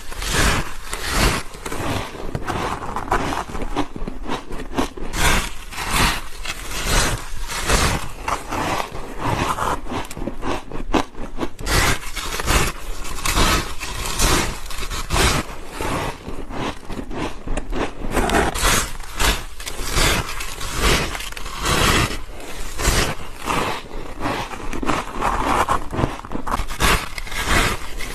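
Ice being bitten and chewed close to the microphone: a dense, irregular run of crisp crunches and scrapes of frozen ice and frost.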